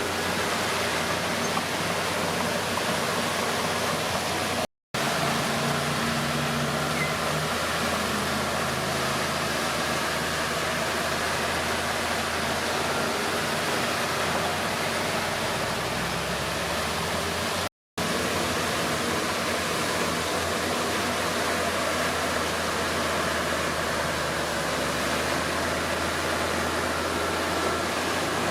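Komatsu D31P bulldozer's diesel engine running steadily with a dense, noisy sound; its engine note shifts a little along the way. The sound drops out abruptly twice, for a split second, about five and eighteen seconds in.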